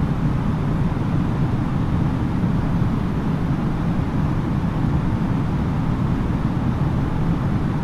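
Steady low rumble of cabin noise inside an Airbus A330-900neo on final approach: Rolls-Royce Trent 7000 engine and airflow noise, holding even throughout.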